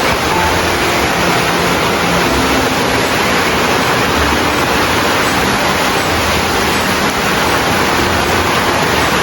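Loud, steady rush of falling water, starting and stopping abruptly, with faint background music underneath.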